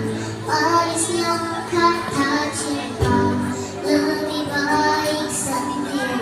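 A child singing a melody over musical accompaniment.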